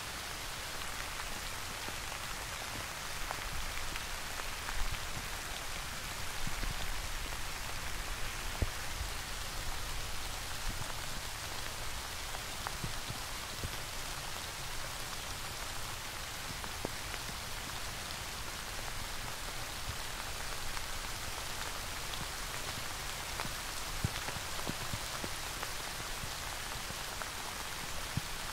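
Steady rain falling, an even hiss with scattered individual drops ticking and now and then a louder drop hit.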